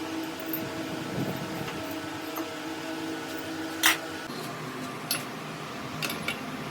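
A workshop machine motor humming steadily, with one sharp click near the middle and a few lighter clicks after it. The hum's pitch shifts just after the loud click.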